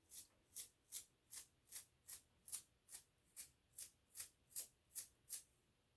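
Toothbrush bristles flicked again and again to spatter watercolour paint as snowflakes: a steady run of short, crisp flicks, about two and a half a second, stopping shortly before the end.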